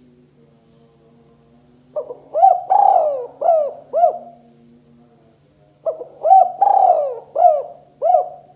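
Spotted dove cooing: two phrases of about five coos each, one starting about two seconds in and the next about six seconds in.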